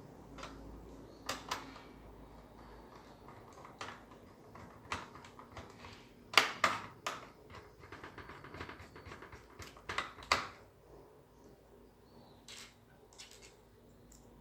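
Irregular sharp clicks and taps, with the loudest cluster about six and a half seconds in and another around ten seconds.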